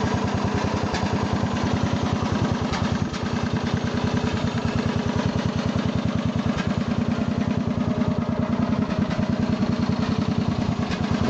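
12 horsepower Briggs and Stratton petrol engine of a Rally Roper lawn tractor ticking over at a steady idle, with an even, rapid exhaust beat.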